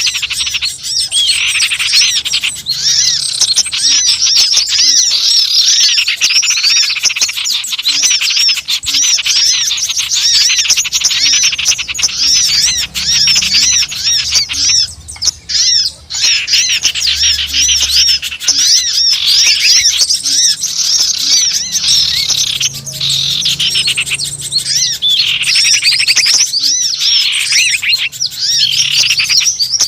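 Bird-lure recording of many small wild songbirds chattering together: a dense, noisy run of rapid overlapping chirps and short high sweeps, with no pause.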